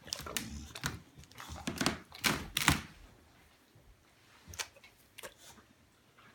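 A dog coughing: a bout of harsh coughs over the first three seconds, the loudest two near the end of the bout, followed by a few faint clicks.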